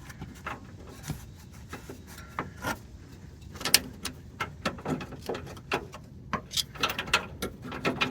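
Irregular metallic clicks and knocks of a new steering idler arm being turned and handled on the car's frame to line up its bolt holes. Sparse at first, coming thicker about halfway through.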